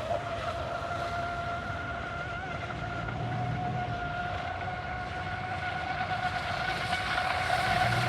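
Electric RC speedboat's brushless motor whining steadily at full throttle over the water, slightly louder near the end. The boat is running slower than it should, which the owner probably puts down to its centre of gravity sitting too far forward.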